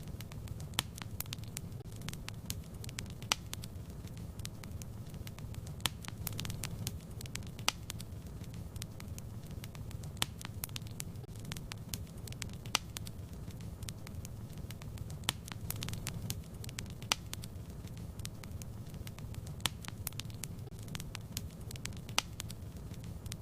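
Wood fire burning in a fireplace: a steady low rumble of the flames with frequent sharp pops and crackles at irregular intervals.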